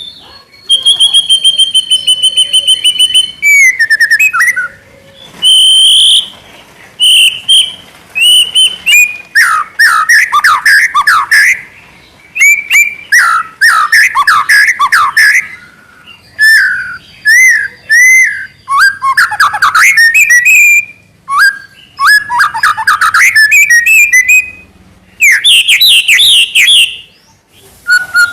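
Young white-rumped shama (murai batu) singing loudly and continuously: a varied run of clear whistled notes, fast rising and falling trills and rapid chattering phrases, each phrase broken off by a short pause.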